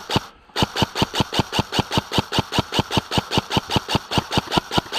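Airsoft gun firing on full auto: a steady stream of sharp shots at about seven a second, with a brief break about a third of a second in before the firing resumes.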